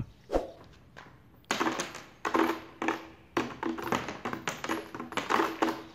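Nails clinking and rattling together in a quick series of short clatters, with a faint metallic ring.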